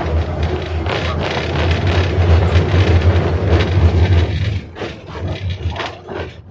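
71-605A tram running on the rails, heard from inside the car: a loud steady low rumble with clatter and clicks from the wheels. It drops off sharply about four and a half seconds in.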